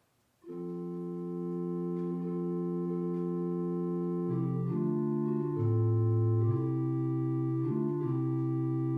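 Organ playing slow, sustained chords, entering about half a second in and moving through several chord changes with a deep bass note held beneath.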